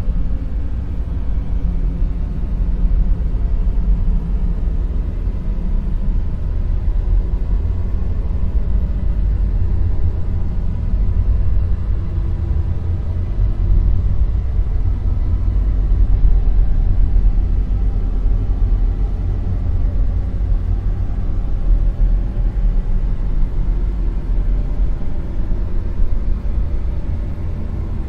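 Dark noise sound effect: a steady, deep rumbling noise with most of its weight in the low bass and little in the highs, swelling slightly about halfway through.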